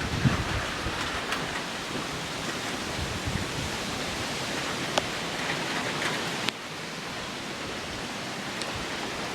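Steady rain falling hard: an even hiss with a few sharp ticks of drops striking close by. A gust of wind buffets the microphone right at the start, and the hiss drops suddenly a little about six and a half seconds in.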